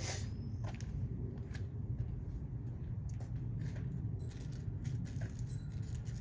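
Light metallic clicks and taps scattered through a few seconds, from small metal trim clips being handled, over a steady low hum.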